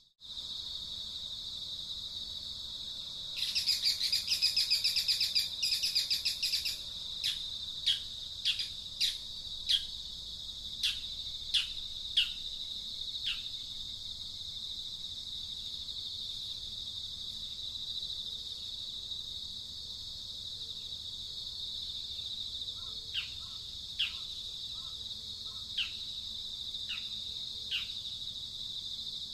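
Steady high insect drone with a bird calling over it: a loud, rapid chattering burst a few seconds in, then a long series of short chirps that each drop in pitch, in two spells.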